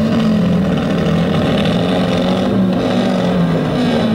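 Engines of 2-litre banger cars revving hard, their pitch wavering up and down as the cars push and shunt into each other.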